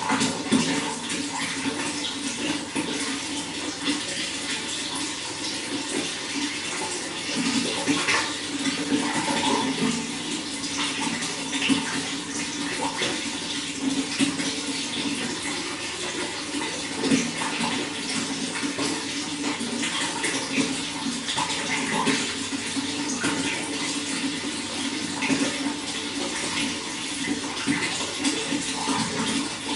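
Running water flowing and splashing steadily, with a continuous rush and many small splashes.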